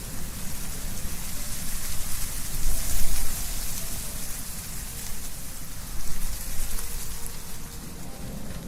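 Wind blowing through trees, with a dense rustle of leaves and a low rumble of gusts beneath. It swells to its loudest about three seconds in and gusts again briefly near the end.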